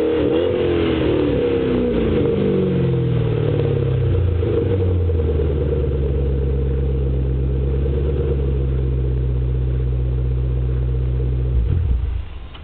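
2005 Mustang GT's 4.6-litre V8 running through a MAC aftermarket exhaust: the revs fall from a held rev back to idle over about five seconds, it idles steadily, then the engine cuts off near the end.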